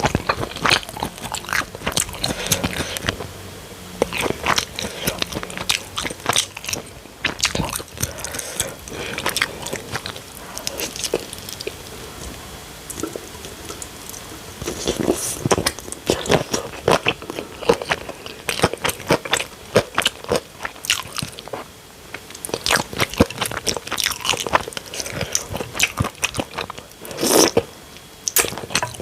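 Close-miked eating: irregular crunching bites and chewing, thinning out briefly in the middle, with one loud crunch near the end.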